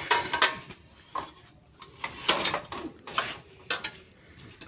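Irregular metallic clinks and clanks of tools and steel parts being handled during gearbox work.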